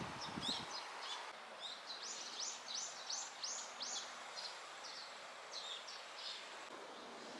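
Small birds chirping: a quick run of high, downward-sweeping chirps about two seconds in, then scattered chirps, over a steady background hiss.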